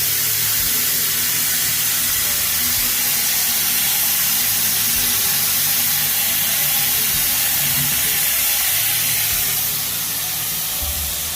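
Water running steadily from a tap down a drain, a loud even rushing hiss that eases slightly near the end. The drain is plumbed without a P-trap, so no siphoning gurgle is heard.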